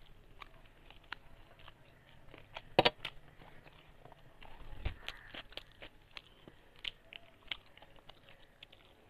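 Someone eating rice by hand: faint, scattered small clicks and smacks of chewing, the sharpest nearly three seconds in.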